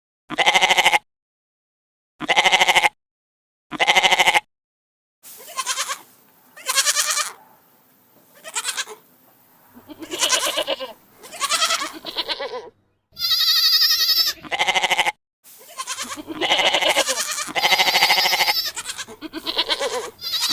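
Goats bleating: three short, identical bleats about a second and a half apart, then a longer run of many bleats close together, with one higher, wavering call about two-thirds of the way through.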